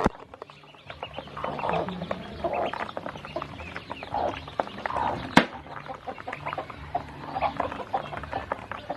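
Many ducklings peeping over one another, with a sharp click about five and a half seconds in.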